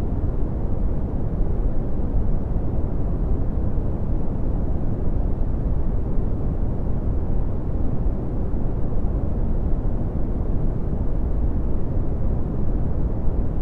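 Red (Brownian) noise: a steady, deep rumbling hiss, strongest in the bass and falling away toward the treble, with no changes.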